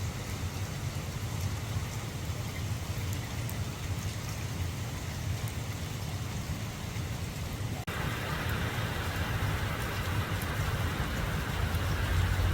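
Steady rain falling, with a low rumble underneath. About eight seconds in it cuts abruptly to a louder, hissier stretch of rain.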